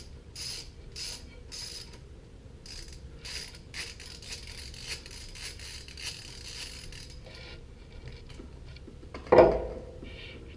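Socket ratchet clicking as it loosens the 12mm oil drain plug of a 2015 Yamaha WR450F, at first in slow clicks about two a second, then in a quick run of clicks from about four to seven seconds in. About nine seconds in, a brief louder sound with a falling pitch cuts in.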